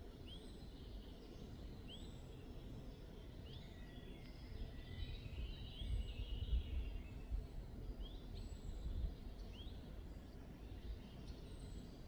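Several songbirds calling: a short upward-sweeping call repeated every couple of seconds and a thin, high falling note, with a brief warbling song in the middle. A low rumble swells under it partway through.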